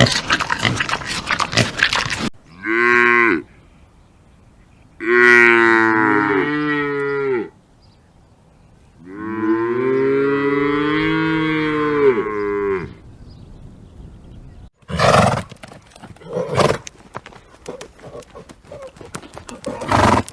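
Cattle mooing: three separate lowing calls, a short one followed by two long ones, the last the longest. A dense crackly noise runs before them, and a clattering noise follows near the end.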